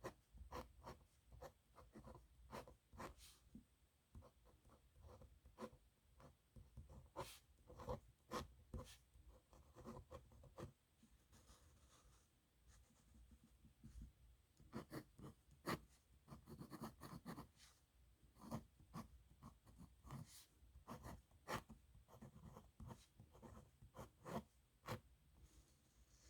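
Nib pen scratching quietly across paper in quick strokes, in bursts with short pauses between them.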